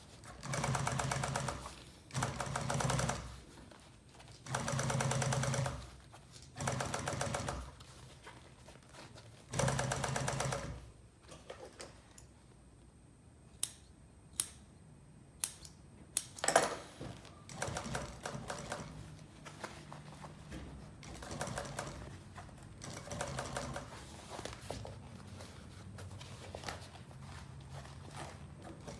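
Upholstery sewing machine stitching in short runs, with a rapid even patter of stitches over the motor's hum: five loud runs in the first eleven seconds. A few sharp clicks follow, then quieter, stop-and-start stitching.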